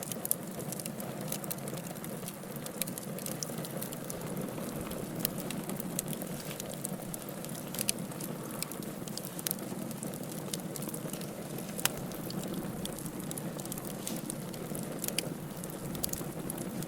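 Wood fire burning in a fireplace: a steady low rush of flames with irregular crackles and sharp pops, a louder pop about twelve seconds in.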